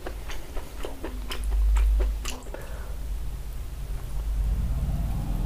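Close-miked eating: a man chewing and biting mutton curry and rice eaten by hand, with a string of wet mouth clicks and smacks. There is a low rumble about a second and a half in.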